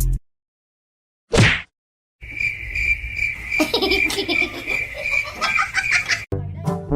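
A steady high-pitched chirring, with fainter irregular sounds under it, starts a couple of seconds in and cuts off abruptly near the end. A short whoosh comes just before it, after a moment of silence.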